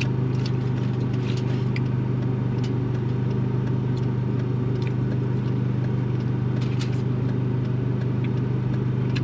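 Steady low hum of a car heard from inside the cabin while it runs, engine and road noise together, with a few faint light clicks scattered through it.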